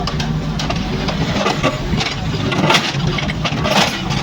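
Kobelco mini excavator's diesel engine running steadily, with scattered knocks and clatter over it.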